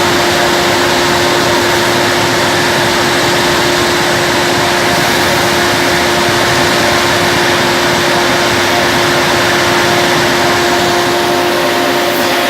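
Peanut grain dryer running: its blower and gas burner give a loud, steady rush of air with a constant hum.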